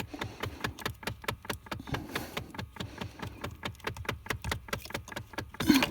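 Rapid, irregular clicking from inside the dashboard of a 2011–2013 Dodge Charger, several clicks a second: the sound of a failing A/C heater blend door actuator.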